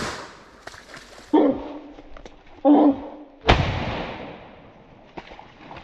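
Bailing dog barking twice with long, held barks, then a single loud shotgun blast of buckshot about three and a half seconds in, its echo dying away over a second or more.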